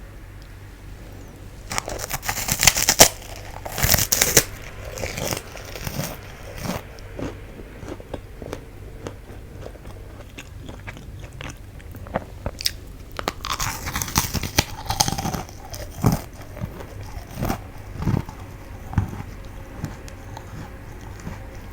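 Close-miked biting and chewing of fu-gashi, a puffed wheat-gluten snack: loud crisp crunching bites about two, four and fourteen seconds in, with quieter irregular chewing crunches between.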